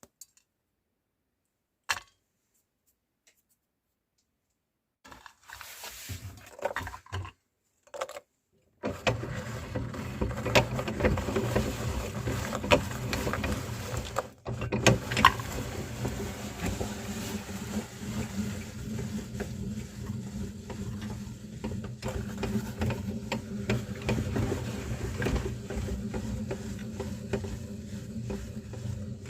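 Electric meat grinder grinding almond biscuits: after a few seconds of quiet and some scattered knocks, the motor starts about nine seconds in and runs steadily with a low hum, under a dense crunching and crackling of the biscuits being broken up. The sound dips briefly a few seconds after it starts.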